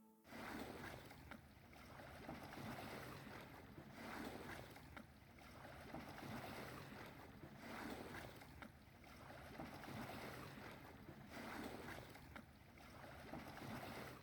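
Water swishing and lapping against the hull of a small timber Heron sailing dinghy under way, with light wind. Faint, swelling and fading every second or two.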